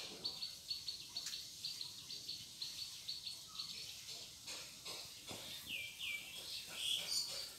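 Birds calling: a quick run of short high notes repeated about four times a second, then a few falling notes near the end.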